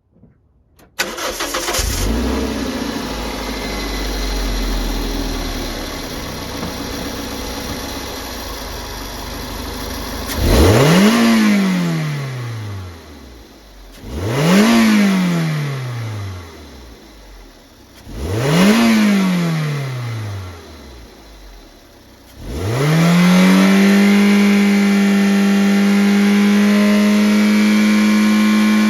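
Toyota 1ZZ-FE 1.8-litre four-cylinder engine running at idle, then revved three times, each rev rising quickly and falling back over about two seconds. Near the end the revs climb and are held steady at a raised speed.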